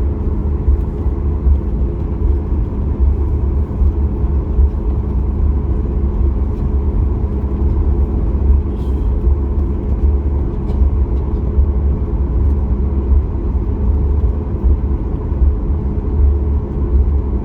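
Cabin noise of a Boeing 737 MAX 8 taxiing: a loud, steady low rumble from its CFM LEAP-1B turbofan engines and the rolling airframe, with a few steady hum tones above it.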